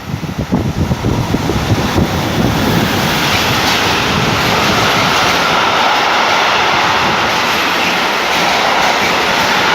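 A train passing close at speed: a quick run of wheel clatter as it arrives, then a steady loud rush of rolling and air noise.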